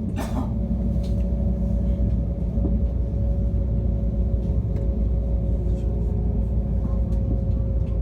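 Steady low rumble inside a moving passenger train's carriage, with a constant hum from the train's running gear and a few faint clicks.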